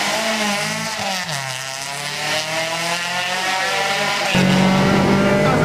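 Renault Clio Williams rally car's 2.0-litre four-cylinder engine revving hard as the car passes, its pitch rising and falling and then fading as it goes by. About four seconds in, the sound cuts suddenly to the same kind of engine heard from inside the car, louder and steadier.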